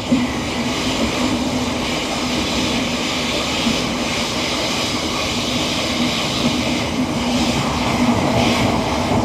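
Merseyrail electric train running through a tunnel, heard from inside the carriage: a steady loud roar of wheels on rail with a steady low hum. The roar jumps up sharply at the start as the train enters the tunnel.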